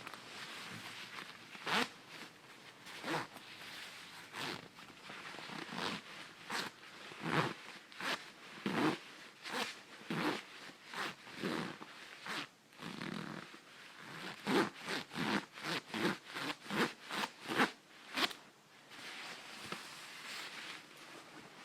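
Zipper on a 66°North packable coat being zipped back and forth in short rasping strokes. The strokes come spaced out at first, then run fast at about three a second, then stop near the end, leaving a faint rustle.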